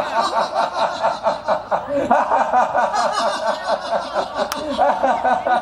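People laughing deliberately on cue in a laughter yoga exercise: rapid, rhythmic "ha-ha" pulses from several voices overlapping, running on steadily.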